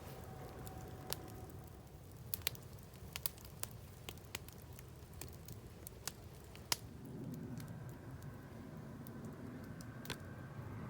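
Campfire crackling, with irregular sharp pops scattered through it. A low steady rumble grows stronger about seven seconds in.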